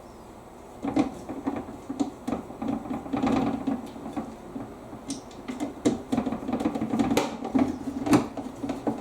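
Irregular clicks and knocks of plastic parts being handled and fitted together while a tumble dryer door is reassembled.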